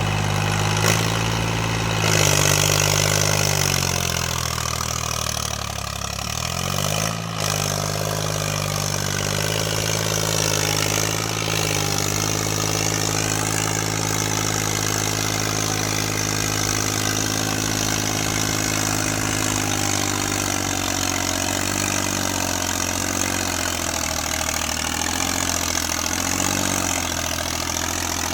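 John Deere 5050D tractor's three-cylinder diesel engine running, its speed dropping and then picking back up about a quarter of the way in, then holding steady with a brief rise near the end.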